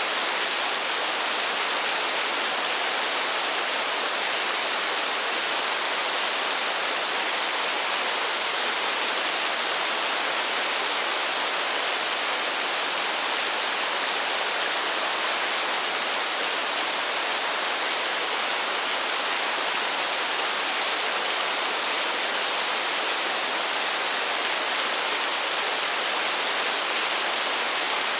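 Steady rain falling in a forest, an even, unbroken hiss of many drops with no single drop standing out.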